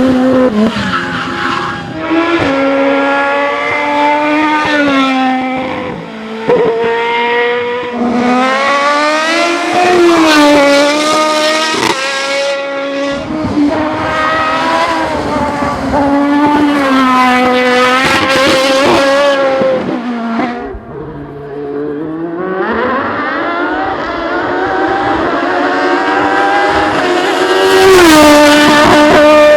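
Racing car engine at high revs on a hillclimb, its pitch climbing and falling again and again through gear changes and lifts. About two-thirds of the way through it drops to a low, quieter spell, then winds back up.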